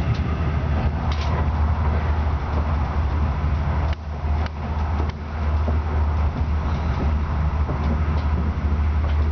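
Regional express train heard from inside the passenger coach: a steady low hum over a rumbling noise, with a few brief clicks and dips about four to five seconds in.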